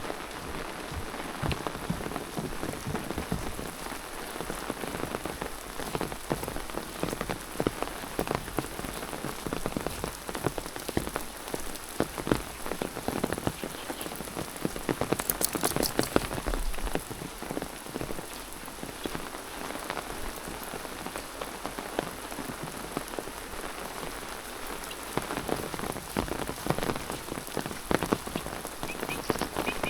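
Steady rain falling, with dense irregular drop taps close by and a brief louder spell of taps about halfway through.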